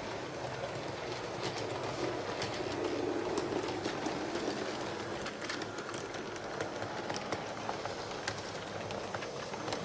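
HO-scale model train running along the track, with steady running noise and many small clicks from the wheels passing over the rail joints.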